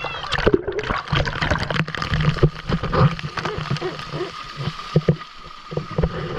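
Waterfall water splashing and gurgling, uneven, with many short splashes and low thumps.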